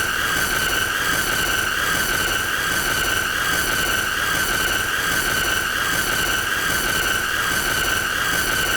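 A continuous shrill squealing tone, steady in pitch and loudness, with higher overtones over a hiss, played on and on as the 'most annoying sound'.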